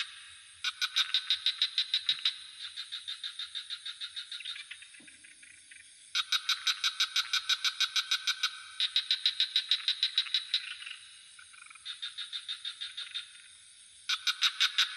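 Frog chorus: rapid pulsed trilling calls, about nine pulses a second, in bouts of roughly two seconds that alternate between louder and fainter callers. A steady high insect drone runs underneath.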